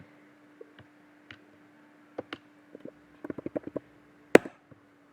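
Scattered clicks of a computer mouse and keyboard: single clicks, then a quick run of about eight key or button presses, then one louder sharp click, over a faint steady electrical hum.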